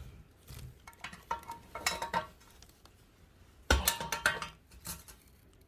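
Channel-lock pliers clinking and scraping on a toilet tank bolt and the porcelain while the nut is tightened: a series of sharp metallic clinks with a short ring, the loudest cluster about two-thirds of the way through.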